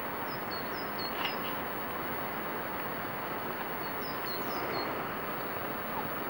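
A small bird gives two short runs of quick, high, falling chirps, about half a second in and again around four seconds, over a steady rushing noise.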